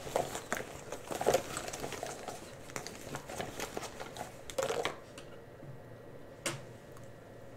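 Close-up ASMR handling of cosmetic products: quick runs of light tapping and clicking with some crinkling for about five seconds, then quieter, with one sharp click near the end.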